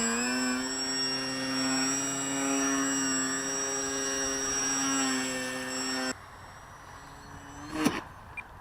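Electric motor and propeller of a Crack Pitts radio-controlled foam aerobatic plane whining at steady power, the pitch wavering slightly. It cuts off abruptly about six seconds in. A brief sharp sound with a quick pitch swoop follows near the end.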